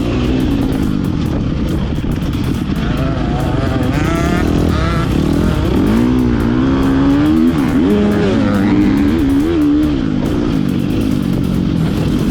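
Motocross dirt bike engine revving up and down as the rider works the throttle and shifts around the track, with a low wind rumble over it.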